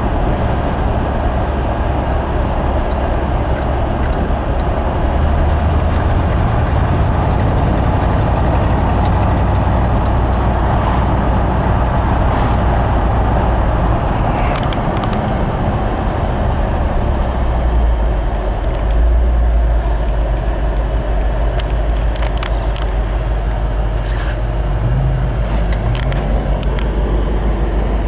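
1970 Ford Bronco running on the road, its engine and road noise steady and loud, with a few faint clicks over the top.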